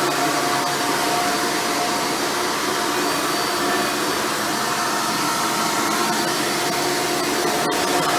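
Hoover Futura Elite upright vacuum running steadily, its 7-amp motor and 7-bladed fan giving a whine of several steady tones over the rush of air.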